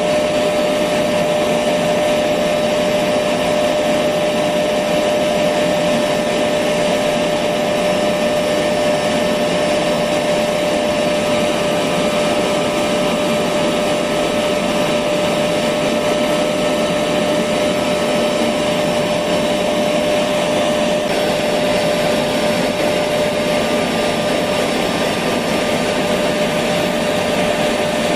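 Electric vacuum cleaner running steadily, a constant rushing hum with a steady whine, used as white noise to settle a baby to sleep.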